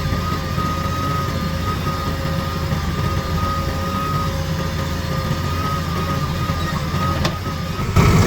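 Heavy diesel engine running steadily under a continuous high whine, getting suddenly louder near the end.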